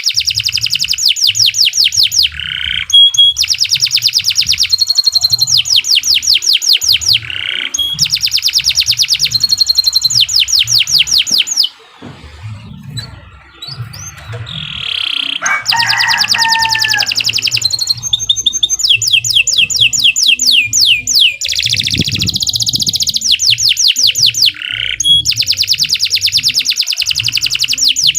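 Domestic canary singing long, rapid trills in phrases of about two seconds each, with a short quieter lull about halfway through where a few lower whistled notes come in.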